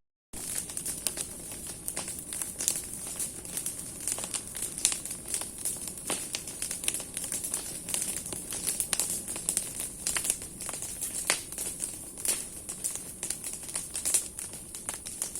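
Large bonfire of burning branches, crackling and popping irregularly and densely over a steady high hiss.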